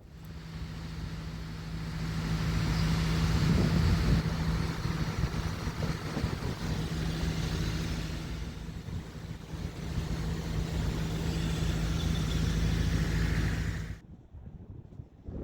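An engine running steadily with a constant low hum under a rumble, swelling louder twice, then cutting off abruptly near the end.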